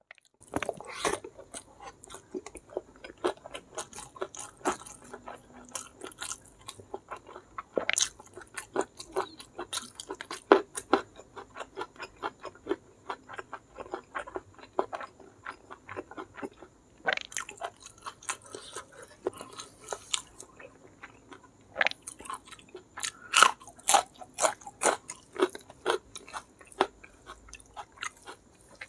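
A person chewing a handful of rice with blood cockles in chilli sambal and petai beans: a steady run of wet, crunchy chewing and biting sounds, thinning briefly in the middle and growing busier again later on.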